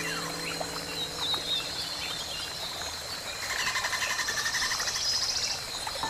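Birds chirping: scattered short downward-sweeping calls over a steady high tone, with a fast buzzing trill for about two seconds past the middle.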